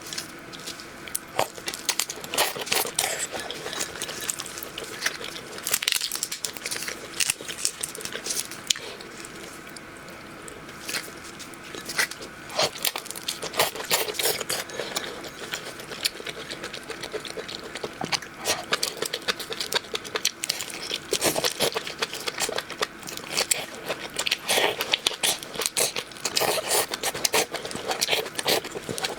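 Close-up crunching and chewing of shrimp: irregular clusters of sharp crackling clicks as shells break between the teeth, over a faint steady hum.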